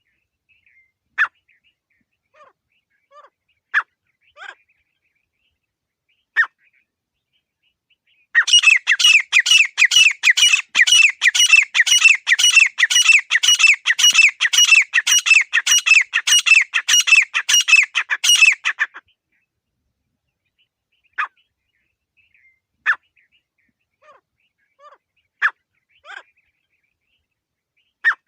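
Grey francolin calling: sharp single notes a couple of seconds apart, then a fast run of repeated notes, about four a second, for around ten seconds, then single notes again.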